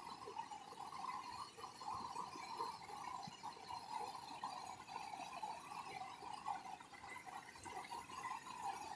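Faint, steady rush of the waterfall's flowing water.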